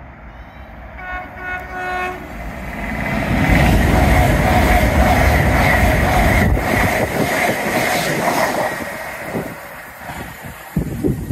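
A train sounds a short horn blast about a second in, then passes through the station at speed with a loud rushing rumble of wheels on rail that fades away near the end.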